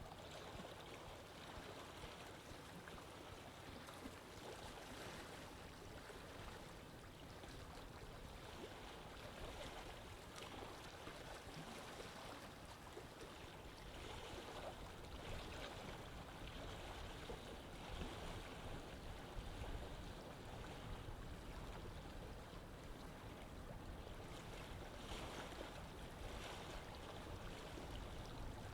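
Water flowing in a canal: a steady, faint rushing with no distinct events.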